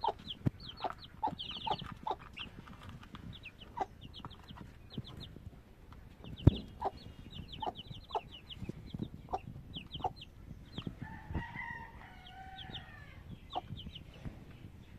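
Young chickens peeping in quick, high chirps that fall in pitch, with a lower, drawn-out chicken call about eleven to thirteen seconds in. Sharp taps and knocks run through it, one louder knock about six and a half seconds in.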